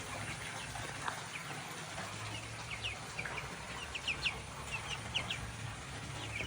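Chickens calling: a run of short, high chirps and peeps that come thickest about two thirds of the way in, over a faint steady low hum.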